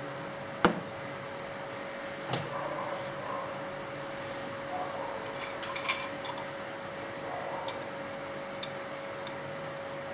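Small hard clicks and knocks of drill parts and tools being handled on a hard surface, with one sharp knock just under a second in and a cluster of light clicks around the middle, over a faint steady hum.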